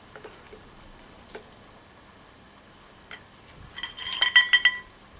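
Metal parts clinking and rattling against one another, a quick cluster of sharp, ringing strikes near the end, after a few faint clicks. Likely tools or hardware being handled during work on the motorcycle's wheel.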